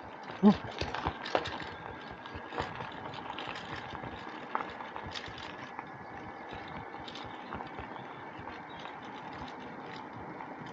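A bicycle being ridden along a rough path: steady tyre rolling noise with frequent small rattles and clicks from the bike. A brief loud pitched sound about half a second in stands out above it.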